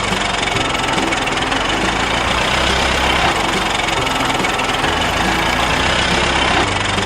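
Construction-vehicle engine running steadily with a noisy, clattering rumble, cutting in abruptly in place of music.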